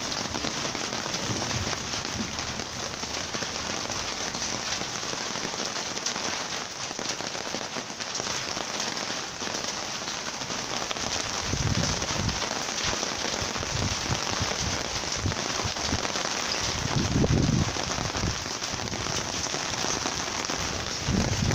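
Heavy rain falling steadily as a dense, even hiss during a thunderstorm, with short low rumbles about halfway through and again a few seconds before the end.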